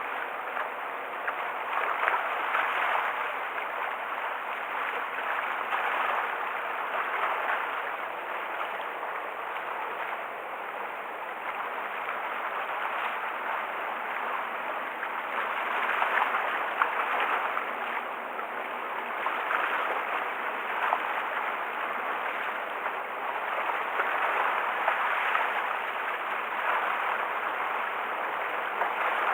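Choppy sea water washing and splashing at the shore, swelling and easing every few seconds; the bay is rough from an approaching typhoon.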